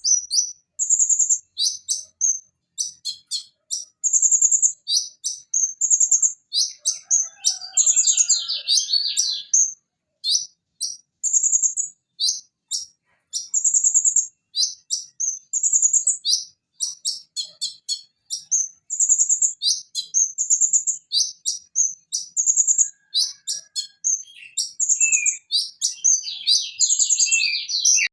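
A Van Hasselt's sunbird (konin) singing continuously: rapid, high-pitched chirps and buzzy trills in quick succession, with a few lower warbled phrases mixed in.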